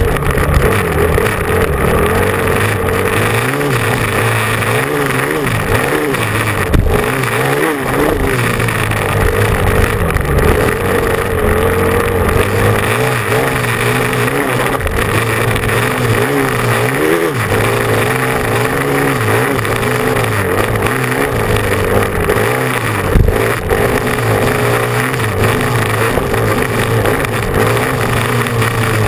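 Motocross bike engine revving hard, its pitch climbing and dropping again and again with throttle and gear changes. Two sharp knocks cut through, about seven seconds in and again near the end.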